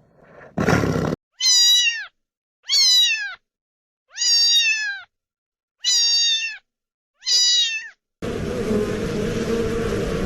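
Domestic cat meowing five times, each meow under a second long with its pitch falling at the end. About eight seconds in, a steady noisy drone begins.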